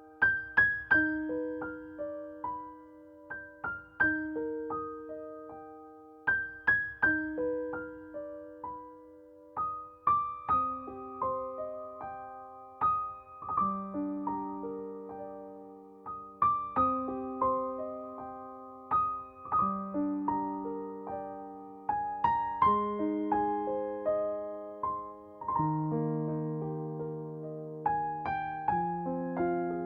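Slow, gentle solo piano music: a quiet melody over held low notes, a note or two each second.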